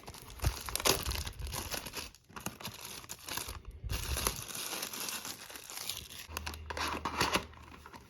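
Packaging of a hockey-card box crinkling and being torn open by hand, in irregular crackling bursts. A steady low hum comes in about six seconds in.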